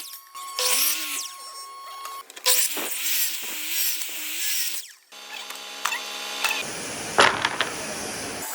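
A power tool runs in short bursts, its motor pitch wavering as it loads and unloads. About five seconds in the sound cuts abruptly to a different, steadier mechanical noise.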